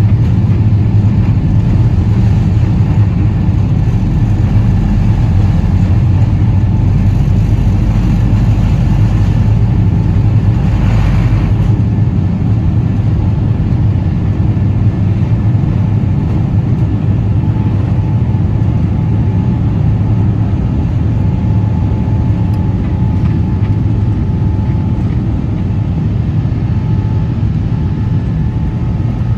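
Boeing 777-300ER's GE90 jet engines heard inside the cabin as a loud, steady roar with a strong low hum. A deeper rumble underneath eases off about twelve seconds in.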